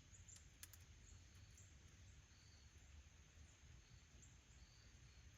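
Near silence: a faint low background hum with short, faint high chirps repeating about once a second, and two soft clicks near the start.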